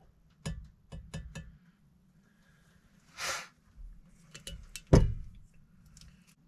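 A steel knife and a glass mason jar handled as the blade is lifted out of its coffee etch: a few light clinks and knocks in the first second and a half, a short rush of noise about three seconds in, and a louder knock about five seconds in.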